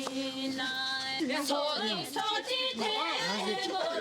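Singing with music: one held note, then from about a second in, voices sliding up and down in pitch.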